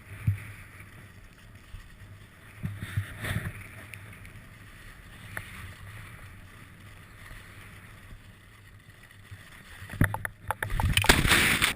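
Quiet action-camera sound: low wind noise on the microphone with a few faint knocks, turning into louder rushing noise and knocks about ten seconds in.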